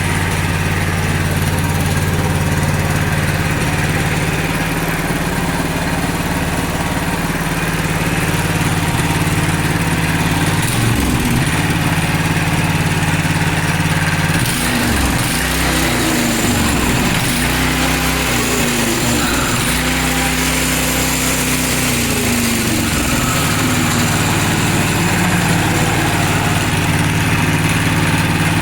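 Single-cylinder Lifan walk-behind-tractor engine fitted in a Minsk motorcycle, running at a steady idle, then revved up and down repeatedly from about ten seconds in.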